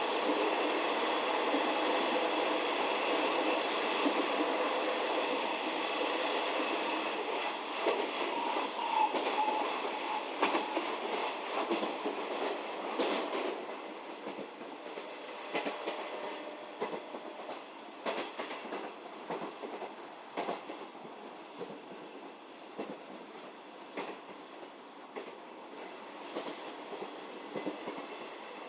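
JR 711 series AC electric multiple unit running along the line, heard from inside the passenger car. A steady buzzing hum fades out around the middle, and the wheels' clack over rail joints becomes the main sound as the train gets quieter.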